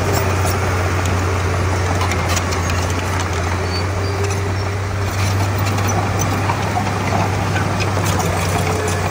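Heavy diesel engine of earthmoving machinery running steadily with a deep, even hum, with scattered light clicks and clanks over it.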